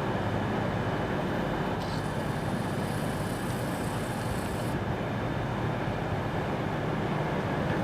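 A train at a station platform, a steady mechanical noise, with a high hiss for about three seconds starting two seconds in.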